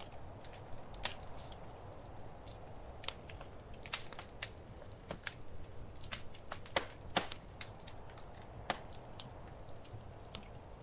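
Wood fire crackling: irregular sharp pops and snaps over a soft, steady background of burning, with a few louder snaps around four, seven and nine seconds in.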